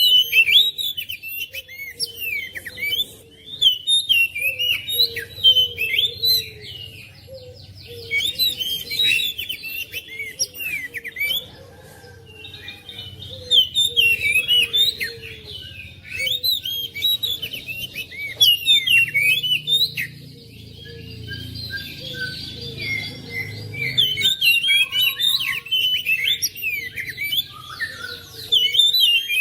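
Oriental magpie-robin (kacer) singing a continuous, varied song of short chirps and whistled phrases. A couple of fast trills come partway through.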